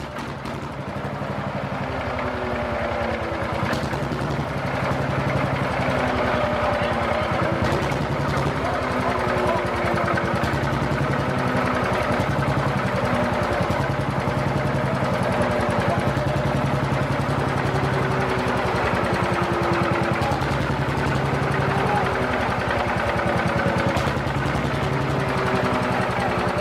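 Old tractor engine running with a fast, even beat. It grows louder over the first five seconds, then runs steadily.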